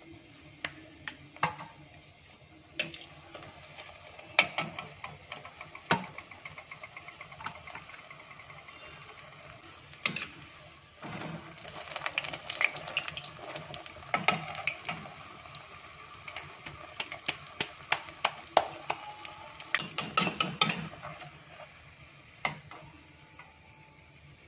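Puri frying in hot desi ghee in a metal kadhai: steady sizzling and crackling of the bubbling ghee. A steel spoon clinks and scrapes against the pan throughout, with a quick run of clinks about twenty seconds in.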